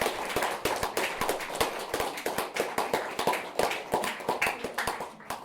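Small audience applauding: a dense, irregular patter of many hands clapping that thins out near the end.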